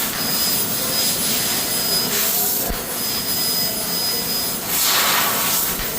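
Steady rushing, hissing machine noise from metal-cutting shop machinery, with a thin high whistle that cuts in and out and swells of hiss a couple of times.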